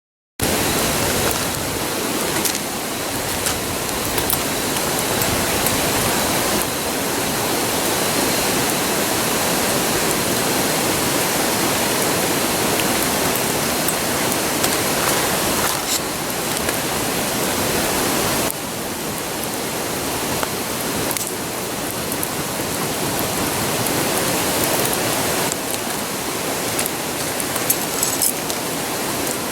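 Steady rushing roar of a river, with a few faint snaps and crackles from a wood campfire, mostly near the end.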